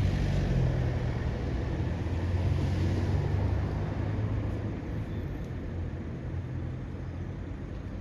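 A vehicle engine running with a low, steady hum that fades away over the second half as the vehicle moves off.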